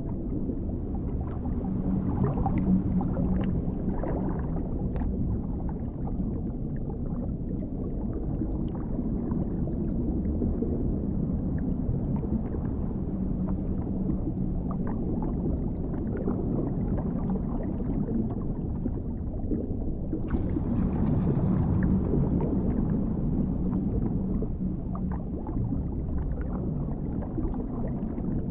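Dark underwater ambience: a steady, deep, muffled rumble with faint low hums and scattered small clicks. About 20 seconds in, a brighter, hissier layer comes in suddenly.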